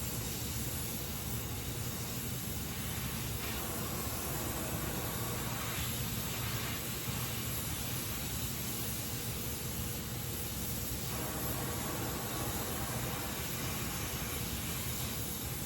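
Gas welding torch flame hissing steadily during aluminium flame welding, with a faint low hum underneath.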